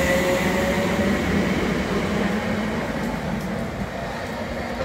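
Electric multiple unit train pulling out of a station: a motor whine that fades out about a second in, then the running rumble of the train slowly dying away as it leaves.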